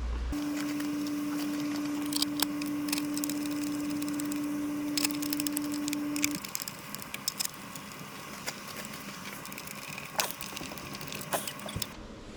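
Plastic engine cover being fitted back over the engine: scattered sharp clicks and knocks. Under them a steady single-pitched tone holds for about the first six seconds and then stops.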